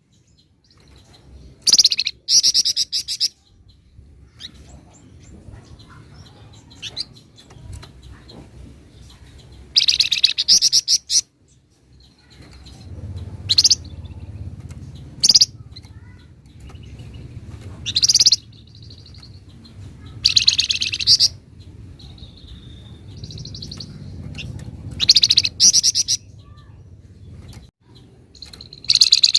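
A songbird of the kind Indonesian bird keepers call 'flamboyan', singing in loud bursts of rapid, rattling trills about every two to five seconds, with short sharp notes in between.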